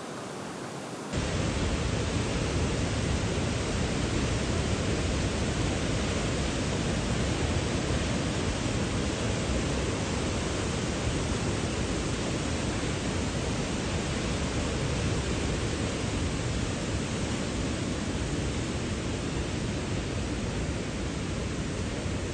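Waterfall rushing: a dense, steady wash of falling water that jumps louder about a second in and then holds even.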